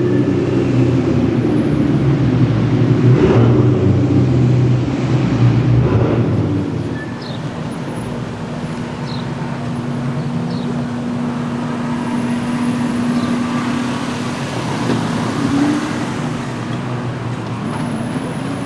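Car engine and street traffic: an engine runs loud for about the first six seconds, then the sound drops to a steadier, quieter hum with a held low tone.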